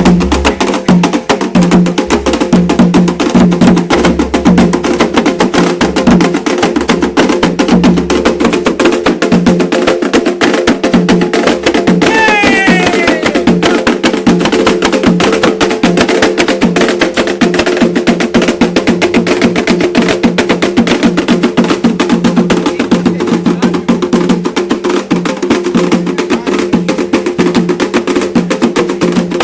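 Fast, dense percussion music: rapid, driving drum and wood-block-like strikes keeping a steady pulse, with a brief falling tone about twelve seconds in.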